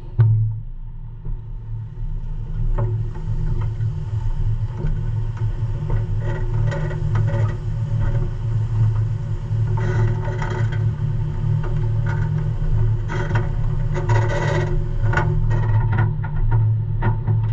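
Semi-truck's diesel engine running steadily at low speed while the truck backs up, with scattered clicks and scrapes on top.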